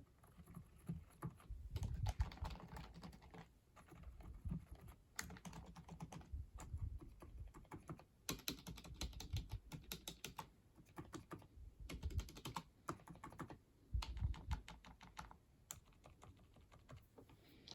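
Typing on a silent wireless keyboard: rapid, soft key clicks in several runs separated by short pauses.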